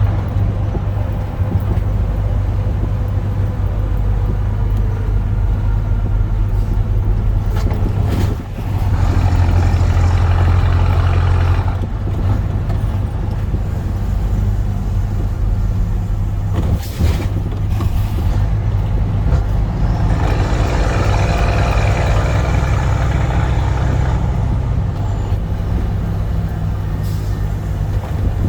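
Scania heavy truck's diesel engine running through a straight-through exhaust, a deep steady drone that gets louder about a third of the way in and swells again later. A few short sharp hisses, like air brake releases, cut in along the way.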